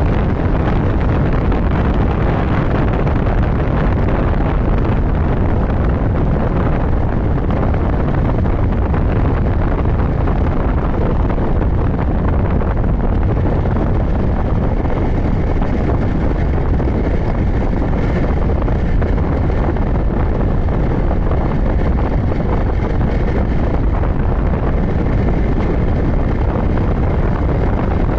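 Motorcycle riding at highway speed: steady wind buffeting the microphone over the engine and road noise, with no break. A faint, steady high whine joins about halfway through.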